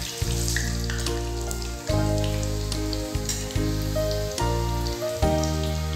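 A sheet of nimki dough deep-frying in hot oil in a steel kadai, sizzling steadily, with a slotted spoon moving it in the pan. Instrumental background music with deep bass notes plays over the sizzle.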